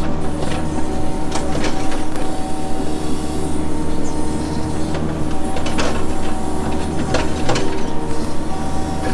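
An engine of heavy work equipment running steadily, a constant hum with several pitches, with a few short clicks and knocks over it.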